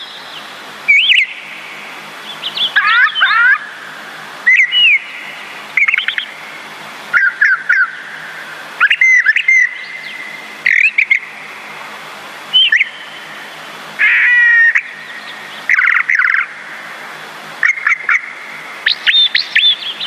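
Songbirds chirping and calling: short whistled chirps and rapid trills every second or two over a steady background hiss.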